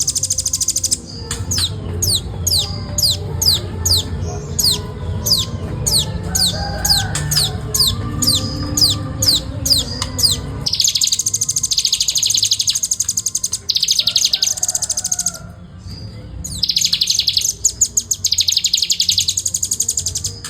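Velvet-fronted nuthatch singing in fast, tight bursts. A run of separate high notes, each falling sharply, comes at about two a second for the first half. Then there are long, very rapid high trills, broken by a short pause about three-quarters of the way in.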